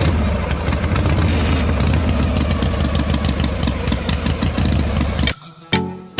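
An engine running steadily with an even, rapid chugging, then cutting off abruptly about five seconds in. Music with a beat comes in just after.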